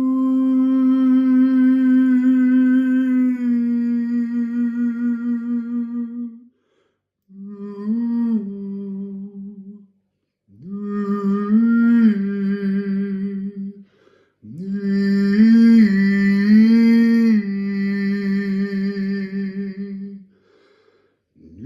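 A man's voice toning a slow, wordless sound-healing melody in long held notes. There are four phrases with short breaths between them, and the pitch steps and glides between notes, drifting into new keys.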